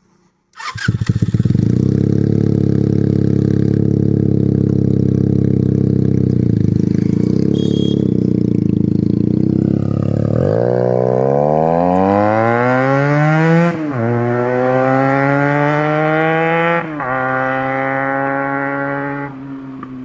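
Benelli TNT 300 parallel-twin engine through an SC Project aftermarket exhaust, starting about half a second in and idling steadily. Near the middle it pulls away with rising revs, broken twice by a sudden dip as it shifts up a gear, then holds a higher pitch before easing off and fading near the end.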